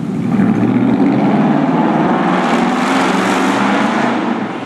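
Straight-piped pickup truck exhaust running loud as the truck drives past, building up in the first second and easing off near the end.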